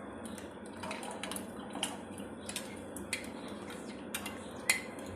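A metal spoon clinking against a pan and bowl, several separate light clinks with the loudest near the end, over a steady low hiss.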